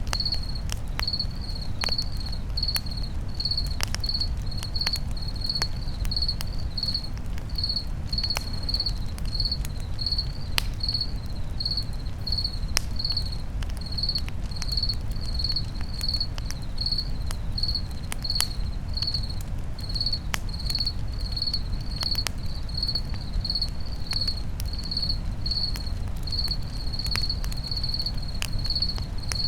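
A cricket chirping steadily in an even rhythm, roughly one and a half chirps a second, over a campfire crackling with scattered sharp pops and a low steady rumble of flames.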